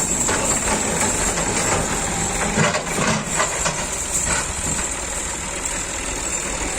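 A vehicle engine running steadily, with a few short knocks or clatters about two and a half to four and a half seconds in.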